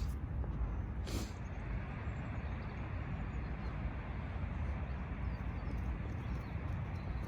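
Steady low outdoor background rumble, with one short sharp sound about a second in.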